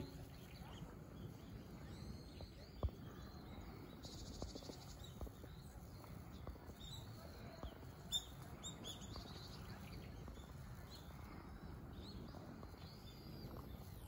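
Faint outdoor background hum with scattered short, high, thin bird chirps through the middle, and a few soft knocks, the loudest about three seconds in.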